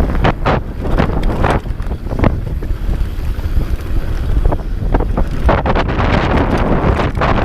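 Wind buffeting the microphone of a moving enduro motorcycle, over a steady low rumble from the bike, with frequent sharp knocks and rattles over rough ground. The noise grows brighter and denser about five and a half seconds in.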